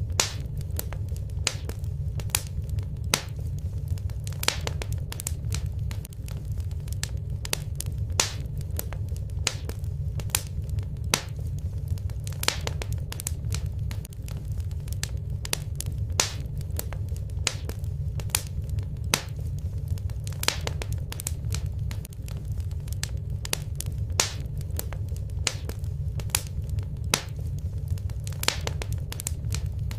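Fireplace fire crackling: frequent sharp pops and snaps at an irregular pace over a steady low rumble of the flames.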